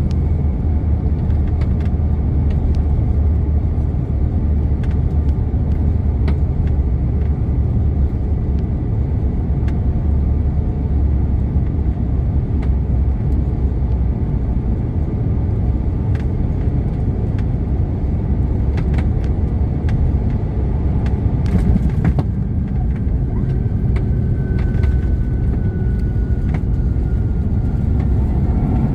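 Steady low rumble throughout. In the last few seconds a faint high whine slowly falls in pitch, from the CF34 turbofans of a Bombardier CRJ-900 regional jet on its landing approach.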